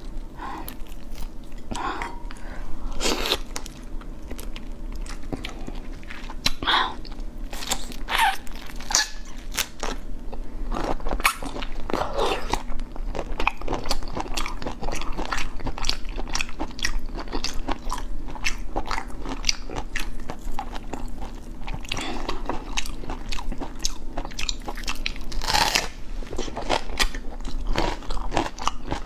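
Prawns being chewed close to a clip-on microphone: a steady run of short wet crunches and bites.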